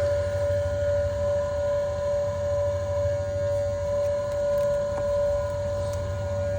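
EVAP smoke machine running, a steady hum with a constant high tone over it, as it pumps smoke into the evaporative emissions system to find a small leak.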